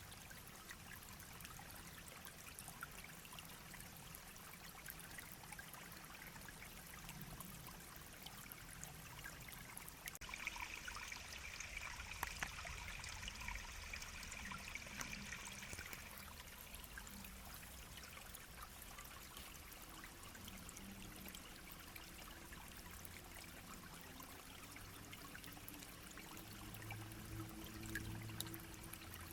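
Shallow brook babbling steadily over stones. About a third of the way in, a higher-pitched hiss rises over it for several seconds, and a faint low hum comes in near the end.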